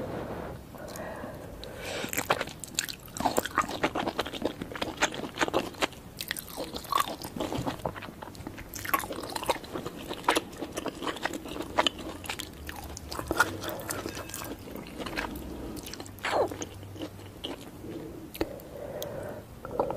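Close-miked eating sounds of someone chewing soft-boiled eggs in a spicy noodle soup: many quick wet clicks and smacks of chewing and biting, starting about two seconds in and easing off near the end.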